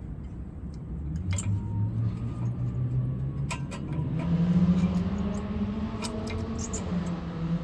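A vehicle engine running nearby, its pitch climbing about four seconds in and then holding steady, with a few light metal clinks as brake parts are handled.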